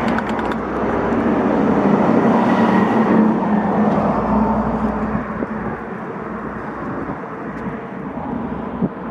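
A vehicle running: a loud rumble with a steady hum, swelling over the first three seconds and then easing to a steadier level.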